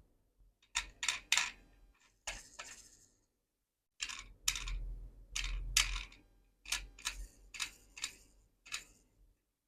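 Irregular small clicks and taps of diecast model cars being handled, hard metal and plastic parts knocking and clicking together. The sound breaks off suddenly about three seconds in and resumes a second later.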